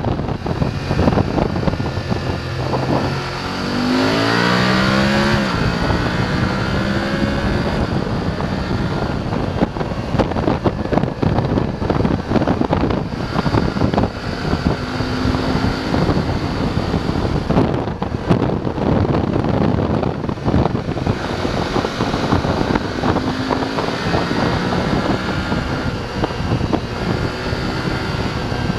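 BMW F850 GS parallel-twin engine under way, its revs rising through a gear about three seconds in and then settling to a steady run, with a couple of shorter rises later. Heavy wind buffeting on the microphone runs underneath.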